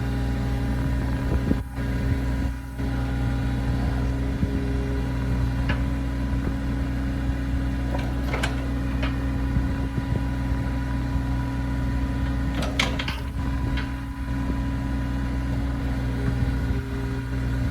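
Bobcat E26 mini excavator's diesel engine running steadily, with a few short sharp clanks or squeaks about eight seconds in and again near thirteen seconds.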